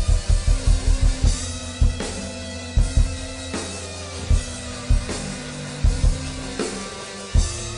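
Band music played live with no vocals, led by the drum kit: a quick fill of close drum hits at the start, then a steady beat of kick drum and cymbals over held bass notes.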